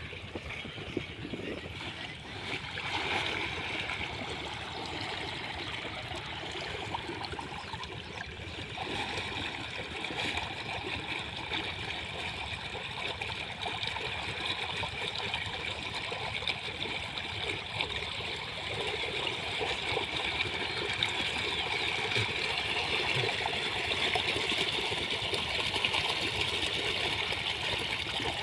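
Pumped irrigation water flowing in a steady rush with gurgling, growing a little louder over the stretch.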